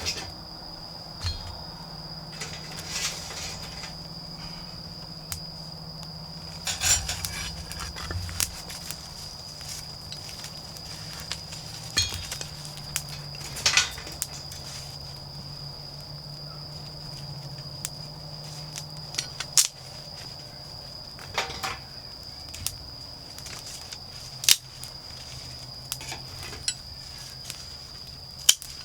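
Autumn insects singing a steady, high, unbroken trill, with a low steady hum beneath. Over it come intermittent rustling and a dozen or so sharp clicks from someone handling things close by.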